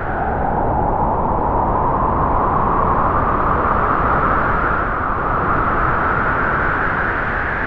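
Strong wind howling steadily, its whistling pitch sagging a little and rising again, then starting to fade near the end.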